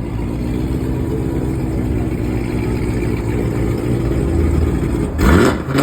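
Car engine idling with a steady low rumble, then revved sharply near the end.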